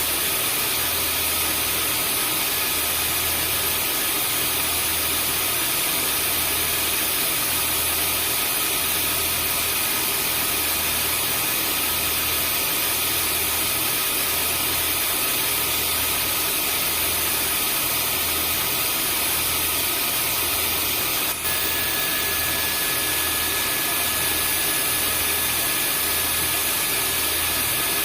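Vacuum cleaner running steadily: a constant rush of air with a high motor whine and a low hum that pulses about once a second. A brief click comes about 21 seconds in, and a faint new tone joins after it.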